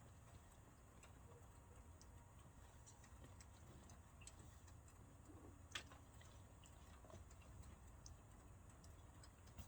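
Near silence with a faint low rumble, scattered faint ticks and one sharper click about six seconds in.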